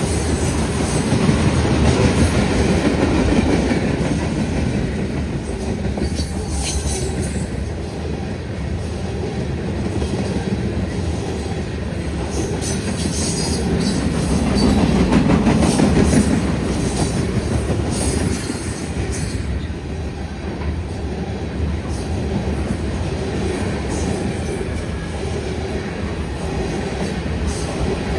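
Freight train rolling past close by: a steady rumble of steel wheels on the rails with rapid clicking over rail joints, swelling and easing as the cars go by.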